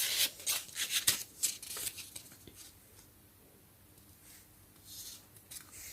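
Pages of a small paper storybook being turned and handled: a quick run of papery rustles and slides for about two seconds, then a couple of faint rustles near the end.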